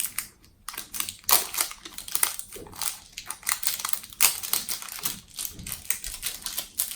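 Wrapping being peeled and torn off a Mashems Hatch'ems dino egg toy, a dense run of irregular crinkling crackles and rustles.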